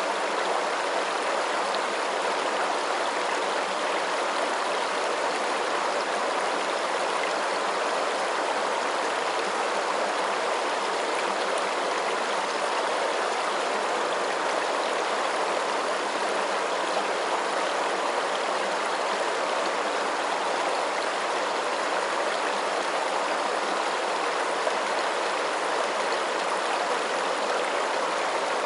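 Running water making a steady, unbroken rushing hiss, like a flowing stream, with no drips or splashes standing out.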